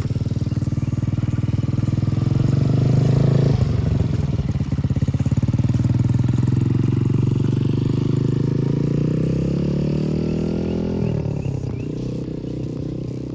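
110cc Trailmaster TM15 dirt bike's four-stroke engine pulling under throttle, its pitch climbing, a brief break about three and a half seconds in, then climbing again more slowly. The engine gets quieter and its note wavers near the end.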